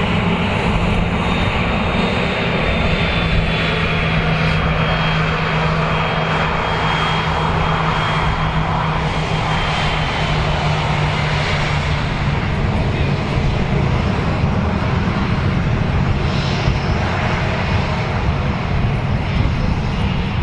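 Jet airliner's engines passing close by: a loud steady rush with a high whine that slowly falls in pitch, and a low hum that drops about halfway through.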